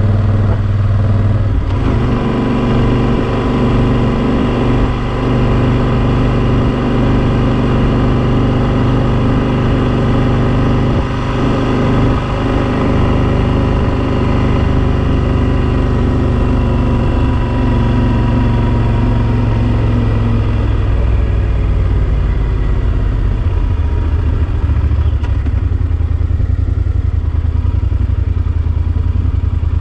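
Yamaha XT1200Z Super Ténéré's parallel-twin engine running steadily under way. About two-thirds of the way through its note drops and settles lower, as the bike eases off.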